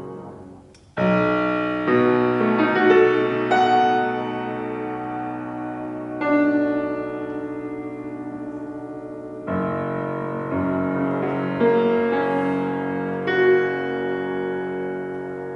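Acoustic piano played in a classical solo performance: the sound drops away briefly, then comes back about a second in with a sudden loud chord, and several more accented chords follow over sustained notes.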